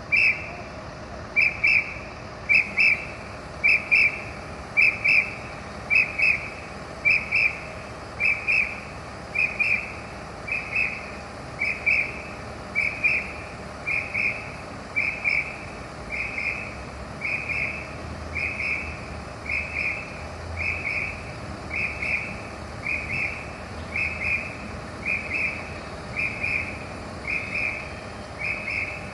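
A high-pitched warning signal that goes as a quick double pip, like a whistle or a beeper, repeating evenly about once a second. The pips start loud and gradually grow quieter.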